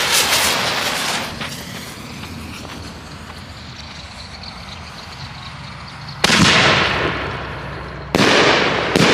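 A Double Dragon double-break firework shell. The launch fades over the first second, then loud bursts come about six and eight seconds in, and a third just before the end, each ringing out as it fades.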